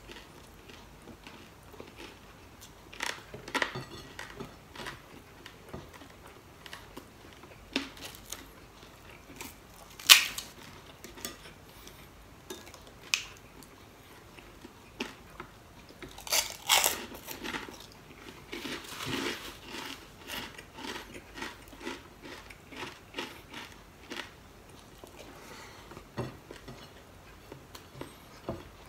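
Close, crisp crunching and chewing of fried dried fish eaten by hand with rice, in irregular crackling bites. The loudest crunch comes about ten seconds in, with another thick run of crunches around sixteen to twenty seconds.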